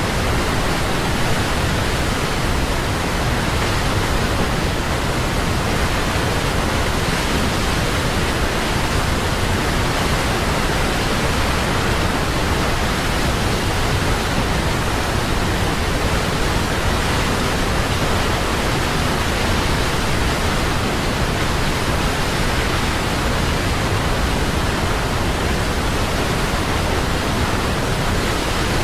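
Large waterfall: water falling and crashing with a steady, unbroken rush.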